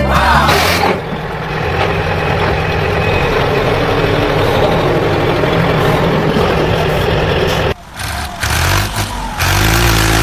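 Truck engine running steadily, with a brief drop-out about eight seconds in before it picks up again.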